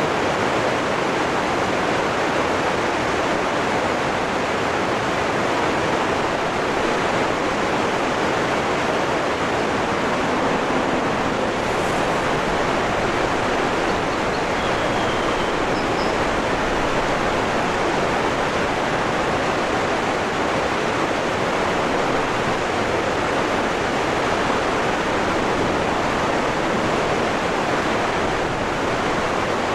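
Waterfall rushing steadily, with a couple of faint, brief high sounds near the middle.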